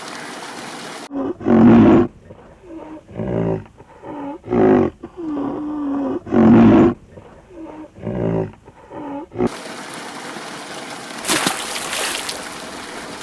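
Rhinoceros calling: a string of about ten deep grunting and moaning calls, some short and some drawn out, then a short breathy rush of noise about two seconds after the last call.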